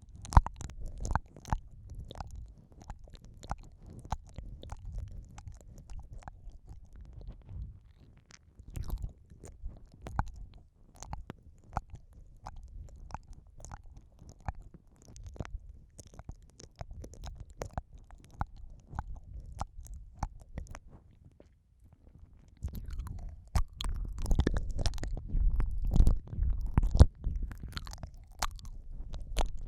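Close-miked wet mouth sounds of ASMR ear eating: lips and tongue licking, sucking and smacking against a microphone's ear, a run of moist clicks over a low rumble of mouth contact. The sounds grow louder and denser for a few seconds near the end after a brief lull.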